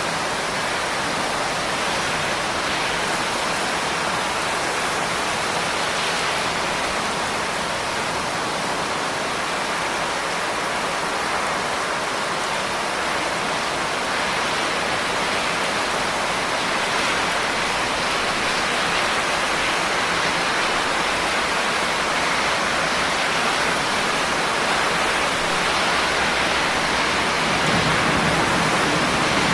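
Steady, even rain falling. Near the end a low rumble of thunder begins to build.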